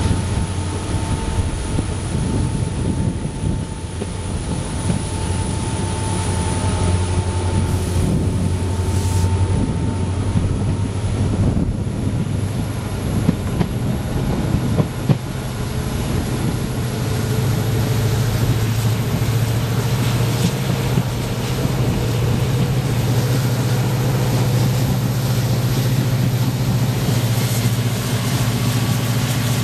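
Passenger train running along the track, heard from an open coach window: a steady rumble and low drone with wheels clattering on the rails, getting louder in the second half.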